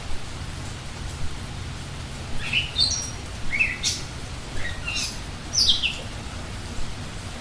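A songbird calling: a run of about seven short, high chirps, several sliding quickly down in pitch, spread over three or four seconds, over a steady low background rumble.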